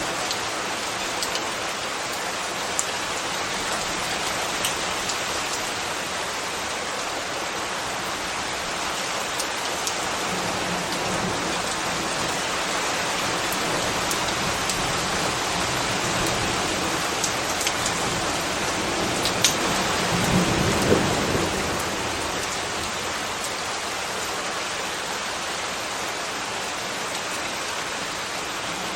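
Steady rain falling on a surface, an even hiss with scattered sharper drop ticks. About two-thirds of the way through, a brief low rumble swells and fades.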